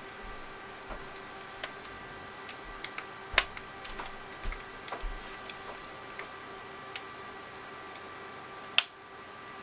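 Irregular small clicks and taps of hands and tools working on a TI-84 Plus calculator's plastic case and internal parts, with two louder clicks, one about a third of the way in and one near the end.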